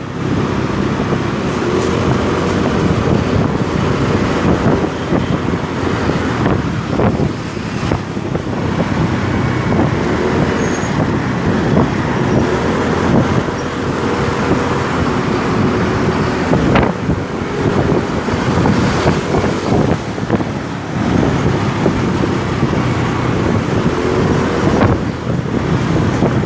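Motorcycle being ridden in road traffic: the engine runs under heavy road and wind noise, its pitch rising and falling with the throttle.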